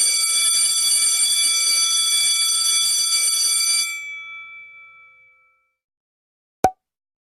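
Electric alarm bell ringing continuously for about four seconds, then cut off and ringing out for a second or so. A single short blip near the end.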